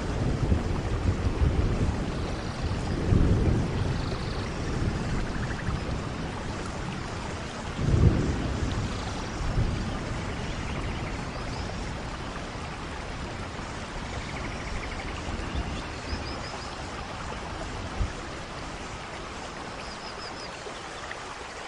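Vehicle driving on a jungle road: steady road and wind rush with low rumbling swells about 3 seconds and 8 seconds in.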